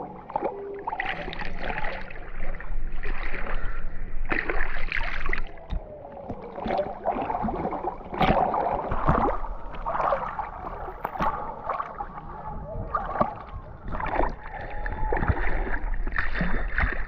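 Moving river water rushing and gurgling around a whitewater kayak, with irregular splashes from paddle strokes as the paddler keeps the boat balanced upright on its stern.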